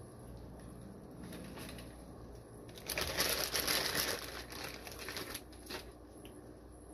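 Plastic fish-shipping bag crinkling as it is handled, starting faintly and rising to a loud burst of crinkling about three seconds in, then dying away.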